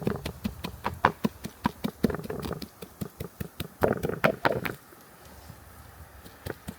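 Irregular taps, clicks and knocks of hands handling objects, a few sharper knocks among them, easing off to a quieter stretch about five seconds in before picking up again near the end.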